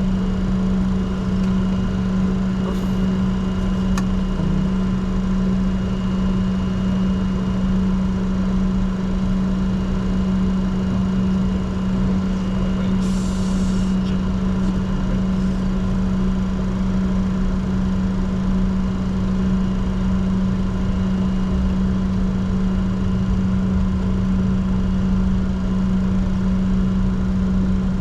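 Steady flight-deck noise in a Bombardier Challenger 604 business jet: a constant low hum and rush of air from the engines and cabin air system, holding level without spooling up. There is a faint click about 4 s in and a short hiss around 13 s.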